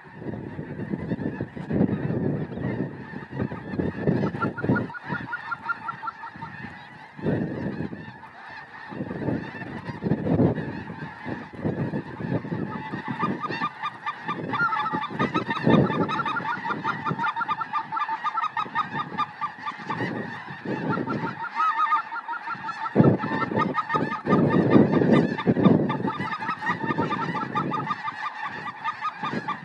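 Large flocks of snow geese and white-fronted geese calling in a dense, continuous chorus of honks that grows thicker about halfway through, over an irregular low rumble.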